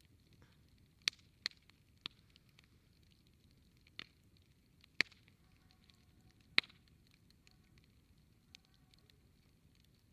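Wood campfire crackling: sharp single pops and snaps every second or so, a few louder ones, over a faint low hiss of the burning fire.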